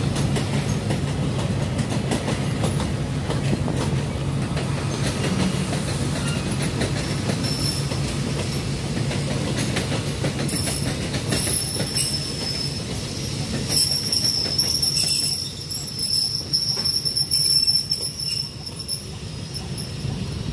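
Passenger coaches of a diesel-hauled train rolling slowly past over points, the wheels clacking over rail joints under a steady low hum. From about halfway a high, drawn-out wheel squeal sets in and grows louder near the end.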